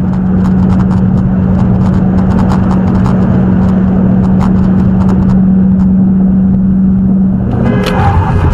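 Car running at a steady engine pitch under loud road noise, with many sharp clicks and rattles. The sound changes near the end, where several other steady tones come in.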